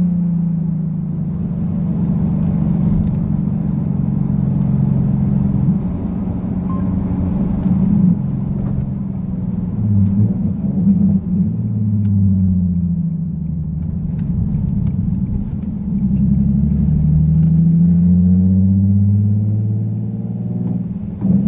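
Nissan Fairlady Z (Z34) 3.7-litre VQ37 V6 engine running on the road, its note rising and falling several times as the revs change.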